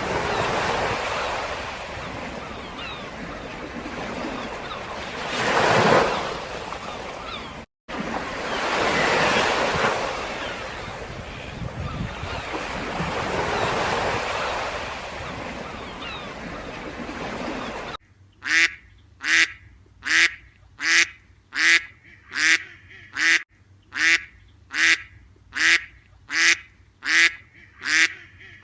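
Waves washing in, in slow swells, for about the first eighteen seconds, with a short break near eight seconds. Then waterfowl calls in a steady, evenly spaced series, about three calls every two seconds.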